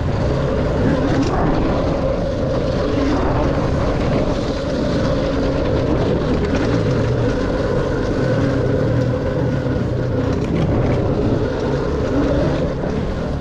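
Dirt bike engine running under way on a trail, its pitch shifting a little as the revs change.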